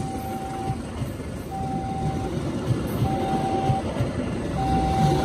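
Economy-class passenger coaches rolling past with a low rumble and wheel knocks. Over this, a level-crossing warning alarm sounds four steady tones, about one and a half seconds apart.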